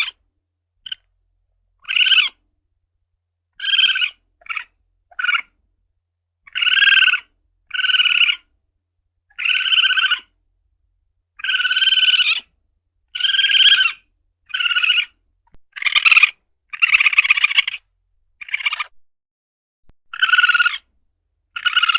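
Asian palm civet (luwak) calling: a series of short pitched cries, each under a second, repeated every one to two seconds with silence between.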